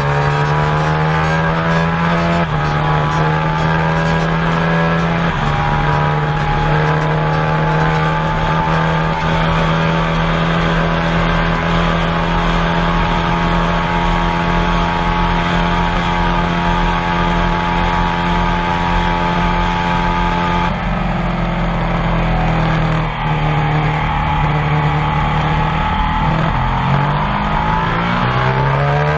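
Superbike engine running at high, nearly steady revs, its pitch shifting abruptly a few times, as at gear changes.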